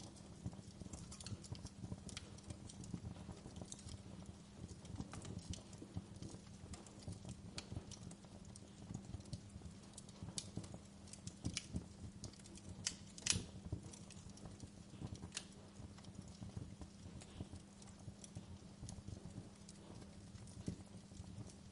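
Wood fire crackling: irregular snaps and pops over a steady low rumble of burning, with one sharper pop past the middle.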